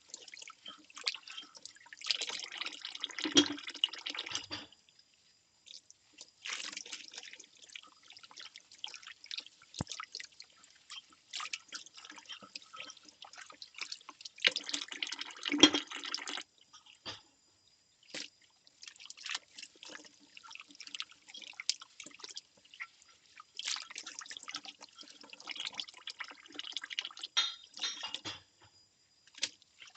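Ceramic bowls being washed by hand in a sink: water splashing and dripping, with small clinks and knocks. Longer spells of splashing come about two seconds in, around the middle, and near the end, with scattered drips and clicks between them.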